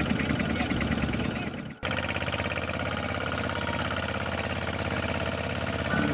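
Small Kubota single-cylinder diesel tractor engine running steadily with a rapid firing chatter; the sound drops out briefly just under two seconds in and comes straight back.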